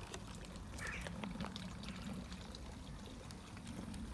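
Model locomotive running along garden railway track: a low motor hum with many small ticks of the wheels over the rail.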